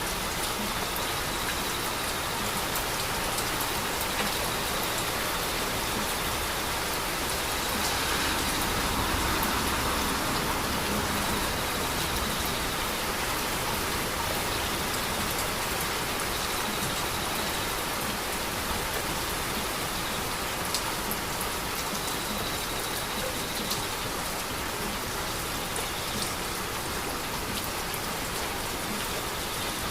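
Heavy rain falling steadily, an even hiss with scattered drop ticks; it swells slightly about eight to twelve seconds in.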